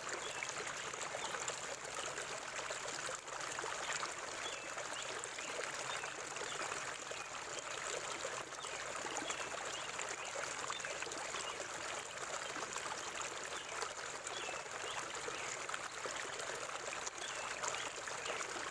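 Forest river water flowing steadily over rocks, an even rushing and trickling.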